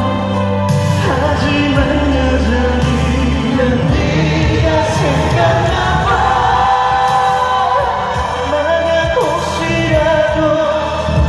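Live pop ballad performance: a male voice singing over a band backing with a steady low bass, heard through a concert hall's sound system.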